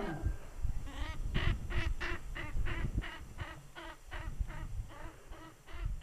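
A bird calling over and over in short honking notes, about four a second, that grow fainter toward the end.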